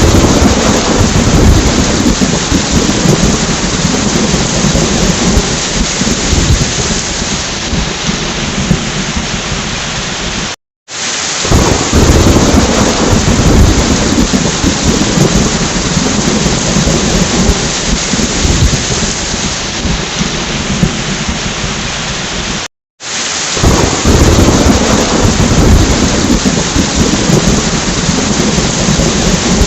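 Steady heavy rain with rolling thunder, a deep rumble swelling three times and easing back into the rain. The sound cuts out for a moment twice, where the recording loops.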